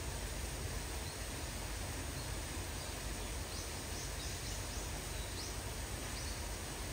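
Steady hiss of rain. A few faint, short, high bird chirps come through about halfway through.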